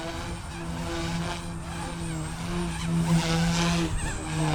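Blade 150S electric micro RC helicopter in hard 3D flight: a steady motor and rotor hum whose pitch wavers and briefly drops as the rotor head loads and unloads through flips, with whooshes of blade noise that are loudest near the end.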